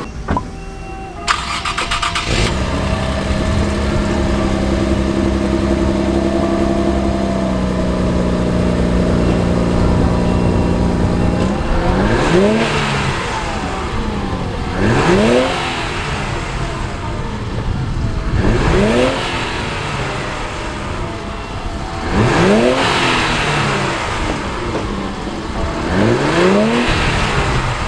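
Infiniti Q50 3.0t twin-turbo V6 with a newly fitted Invidia cat-back exhaust: the engine starts about two seconds in and idles steadily, then is revved five times, a few seconds apart.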